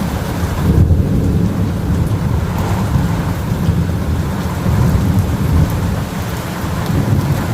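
Thunder rumbling almost without a break during a close lightning barrage, swelling about a second in, over a steady hiss of rain.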